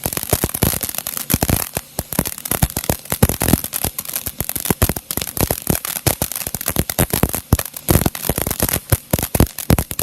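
Whatchamacallit firework fountain in its crackling stage: a steady spraying hiss under a dense, irregular rattle of many small sharp pops.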